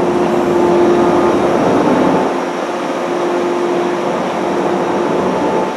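JR West 103 series electric train running, heard on board: a steady motor hum over rail and running noise, with the low rumble easing about two seconds in.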